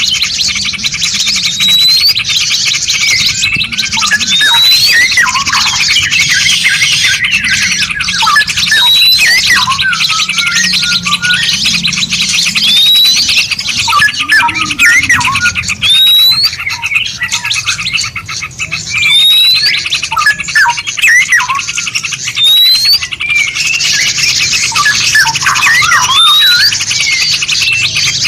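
Several songbirds calling and singing together: a rising whistle repeats every two seconds or so among many other chirps and trills, over a dense high-pitched hiss.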